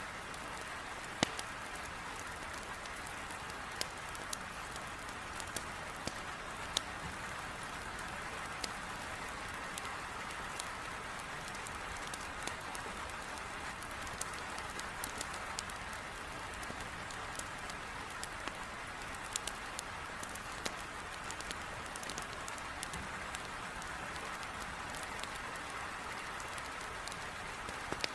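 Heavy rain beating steadily on a window, with the scattered sharp pops and crackles of a wood fire burning in a fireplace.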